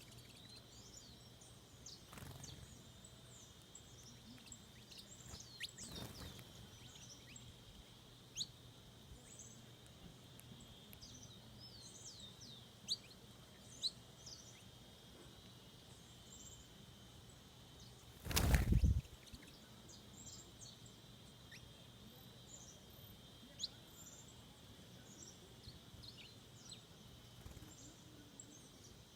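Several wild birds chirping and calling in short high notes scattered throughout, over a steady high-pitched drone. A brief loud rush of noise about eighteen seconds in.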